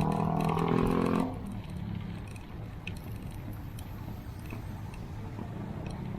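A motor vehicle's engine running close by with a steady, pitched drone that cuts off suddenly about a second in, followed by steady road and traffic rumble with a few faint ticks.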